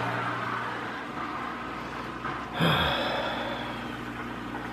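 SunSun 304B canister filter pump running just after being switched on: a steady low hum with a rushing of water and air as it draws water through the hoses. There is a louder gurgling swell about two and a half seconds in.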